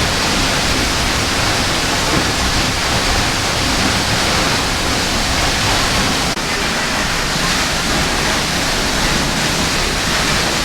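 A waterfall: the steady rush of falling water, loud and unbroken, with a brief slight dip about six seconds in.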